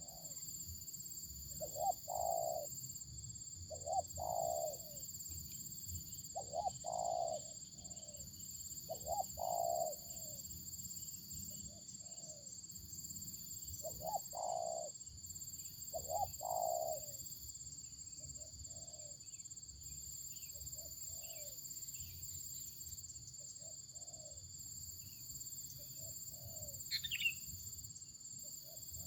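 Wild dove (anduhur dolok) cooing over and over, in short phrases of one to three notes every couple of seconds, over a steady high insect drone. Two brief high, falling calls come in near the end.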